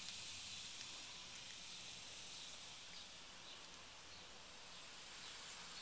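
Faint outdoor garden ambience: a steady high hiss with a few faint, short ticks or chirps scattered through it.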